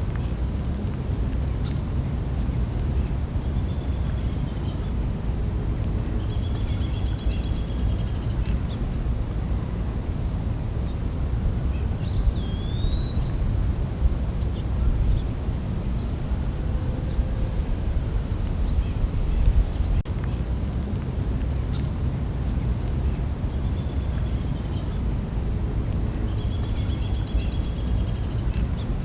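Night insect chorus: a steady high-pitched insect drone with a cricket chirping in an even run of short chirps. A few higher trilled calls come twice in pairs, and a short gliding call comes about twelve seconds in, all over a constant low rumble.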